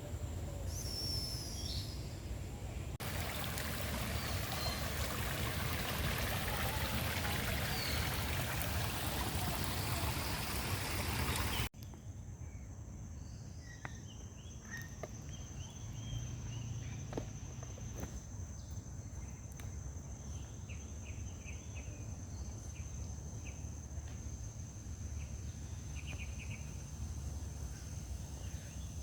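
Steady rush of running water, like a small waterfall or stream, for about the first ten seconds, then a sudden cut to quieter aviary ambience with scattered bird chirps and a thin steady high-pitched tone.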